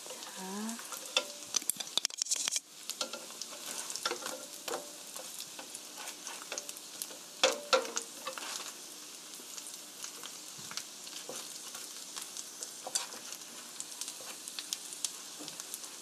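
Egg-and-flour-coated zucchini slices (aehobak-jeon) sizzling steadily in oil in a frying pan over medium-low heat. Sharp clicks and taps of chopsticks and a spatula against the pan sound over it as the slices are moved and turned, the loudest about a second in and about seven seconds in.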